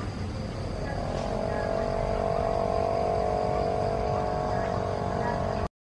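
A motor engine running, its pitch rising slightly about a second in and then holding steady over a low rumbling noise; the sound cuts off abruptly near the end.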